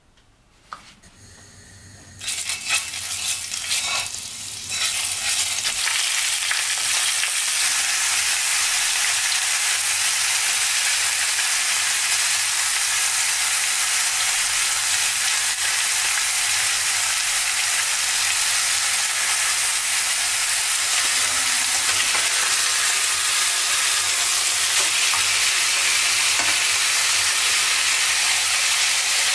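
Pork ribs sizzling as they sear in hot oil in a stainless steel pot. The sizzle starts suddenly about two seconds in and then stays steady.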